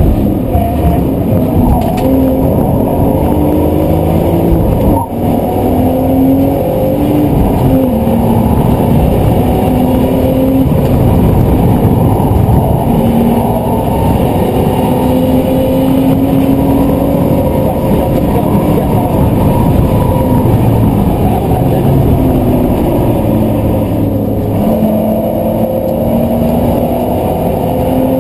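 BMW Z4 engine heard from inside the cabin under hard acceleration, its pitch climbing in steps with a brief drop at each upshift, about five and eight seconds in. It climbs slowly for a long stretch, falls away around twenty seconds in as the car slows, then climbs again near the end.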